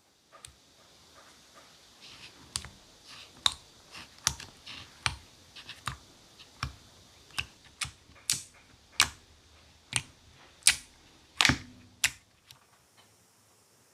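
Sky-blue cloud-clay slime being pressed and squeezed by hand, giving a run of sharp popping clicks, about one to two a second, that stop about twelve seconds in.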